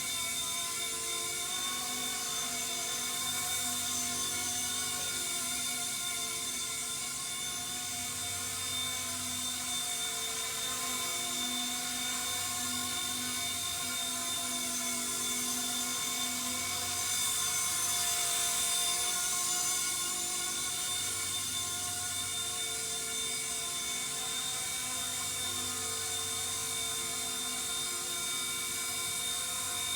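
Small electric RC scale helicopter (MD500-bodied C-189) running in flight: a steady high motor whine with rotor hiss, briefly louder and hissier about two-thirds of the way through.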